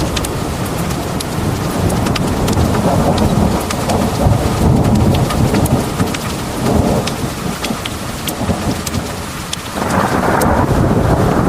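Heavy rain pouring, with a deep thunder rumble rolling under it and scattered sharp drip ticks over the top. The rain noise swells about ten seconds in.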